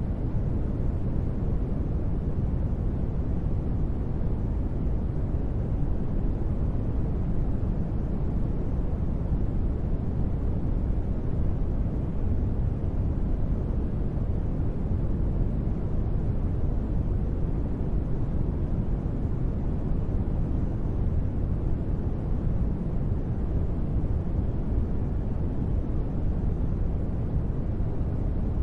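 Steady, unchanging noise with a deep, low tone and little treble, used as a sleep and relaxation ambience.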